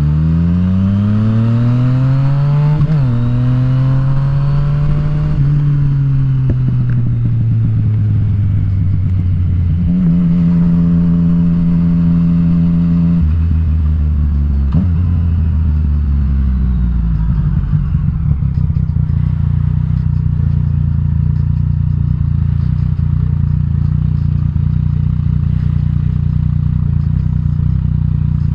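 Yamaha FZ-09's inline-three engine pulling hard through the gears, with an upshift about three seconds in, then rolling off and slowing with the pitch falling. It holds steady briefly and downshifts twice, then settles to a low, steady idle for the last ten seconds or so.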